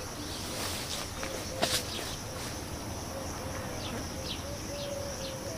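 Outdoor nature ambience: a steady high insect drone with short falling bird chirps, and one sharp snap about a second and a half in.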